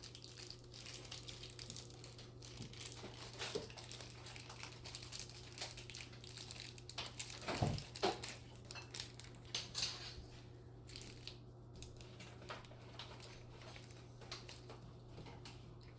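Packaging crinkling and rustling in handling, in many small irregular crackles, with a steady low hum underneath.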